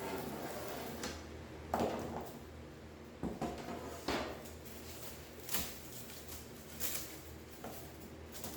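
Handling noises at a garage door panel while fitting insulation: scraping and rubbing with about five sharper knocks spread through, over a low steady hum.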